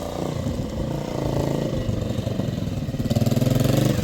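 Motorcycle engine running, getting louder with a quick pulsing about three seconds in.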